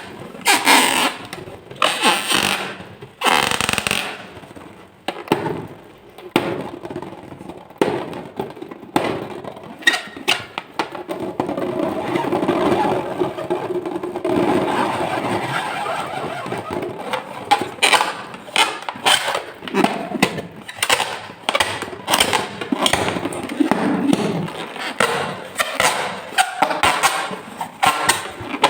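Slime and balloons being handled: a dense run of sticky clicks and crackles, with a longer, steadier stretch about halfway through.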